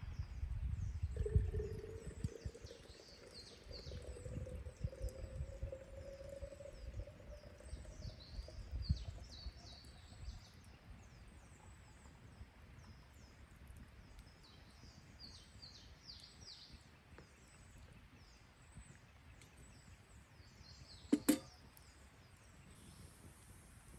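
Small birds twittering in many short, high chirps, over a low rumble during the first ten seconds or so. About 21 seconds in comes a single sharp crack, the loudest sound.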